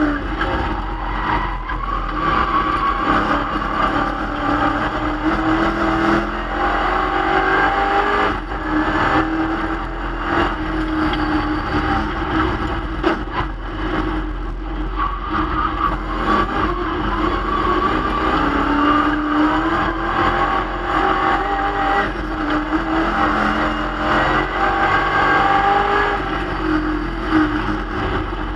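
A 1965 Plymouth Barracuda race car's engine under hard acceleration, heard from inside the cabin: its pitch climbs through the revs and drops back at each gearshift, over and over as the car laps the circuit.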